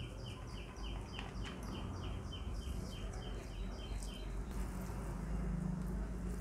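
A bird chirping rapidly and evenly, about three short falling chirps a second, dying away about four seconds in, over a low steady hum.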